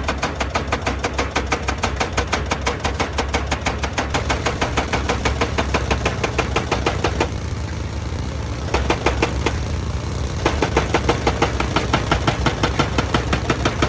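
Excavator's diesel engine running under a rapid, even hammering of about four blows a second, typical of a hydraulic rock breaker pounding stone. The hammering stops for a second or so midway and then starts again while the engine keeps running.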